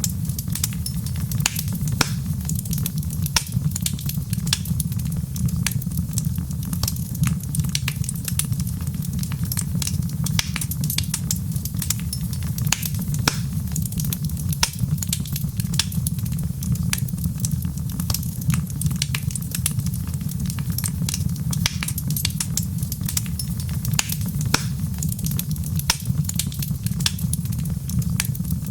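Wood fire crackling steadily, with many irregular sharp pops and snaps over a steady low rumble.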